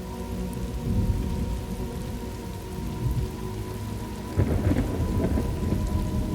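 Thunderstorm ambience: rain with low rolling thunder, and a louder burst of crackling thunder about four seconds in.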